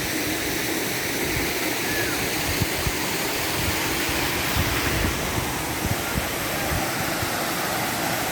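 A waterfall's water rushing and splashing steadily, with a few brief low thumps.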